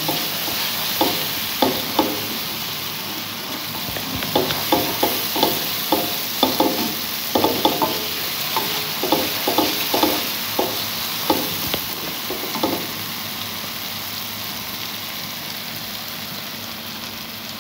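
Tomato-onion masala with spices sizzling in hot oil in a metal pan, being fried (bhuna) before water goes in. A slotted plastic spatula stirs it in quick, irregular scrapes and knocks against the pan. The stirring stops about two-thirds of the way through, and the sizzle carries on alone.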